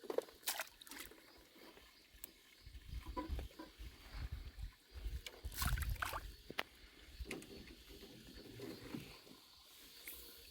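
Small boat being moved in to the bank: scattered knocks and bumps, with low rumbling, loudest about halfway through.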